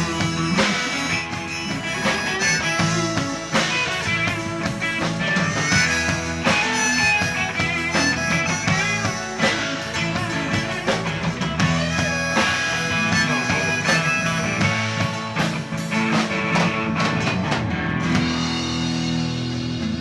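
Live rock band playing an instrumental passage without vocals: electric guitar over bass and a drum kit.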